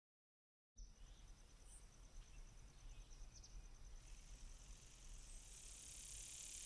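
A moment of dead silence, then faint outdoor ambience: insects chirring steadily in a high, evenly pulsing tone over a low background hum.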